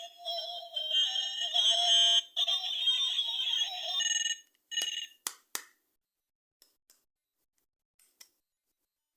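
Electronic sound effect from a battery-powered toy's sound chip, tinny and pitched, playing for about four seconds before cutting off suddenly. Three sharp plastic clicks follow, then a few faint ticks.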